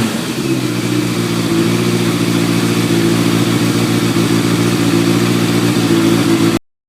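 Freshly rebuilt Yamaha FZR1000 EXUP inline-four motorcycle engine settling from a rev into a steady idle on its first runs after the rebuild. The sound cuts off suddenly near the end.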